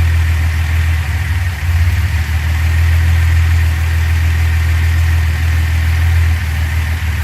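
1970 Datsun 240Z's freshly rebuilt 2.4-litre inline-six idling steadily on its twin SU-type carburetors, with a brief dip in its note about a second and a half in. The carburetors are being set, and the mixture is judged still slightly lean.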